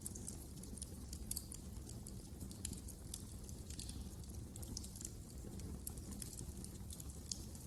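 Wood fire crackling: frequent irregular sharp snaps and pops over a steady low rumble of the burning fire.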